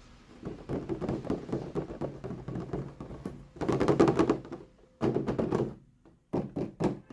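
Small plastic toy pieces handled and tapped together in quick, dense clatter, loudest about four seconds in, followed by three or four separate sharp knocks near the end.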